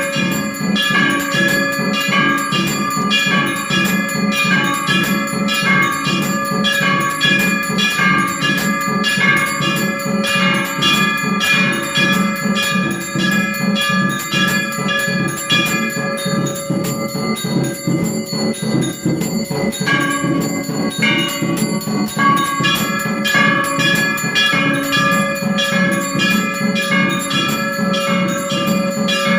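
Temple bells ringing in a fast, steady rhythm of repeated strikes, with a short lull a little past the middle.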